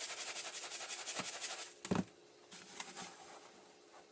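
Hands patting and pressing dry breadcrumbs onto a raw chicken patty: a fast, grainy rustle of many tiny crackles, then a single dull thump just before two seconds in and a few soft clicks after.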